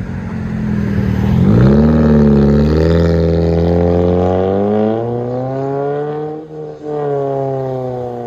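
2006 Pontiac Solstice's 2.4-litre four-cylinder through a 2.5-inch exhaust with a Vibrant bottle resonator and the muffler deleted, accelerating as the car pulls away. The revs climb, drop at a gear change about six and a half seconds in, then climb again.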